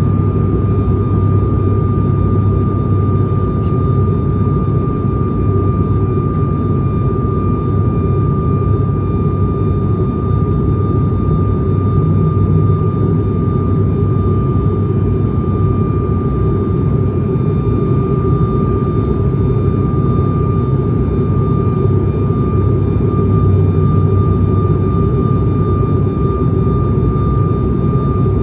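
ATR 72-500 twin turboprop engines and propellers droning steadily as heard inside the passenger cabin, a deep hum with a thin, constant high tone above it.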